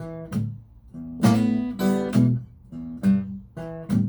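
Acoustic guitar strumming chords, several strums in a loose rhythm, each left to ring, as the song's accompaniment between sung lines.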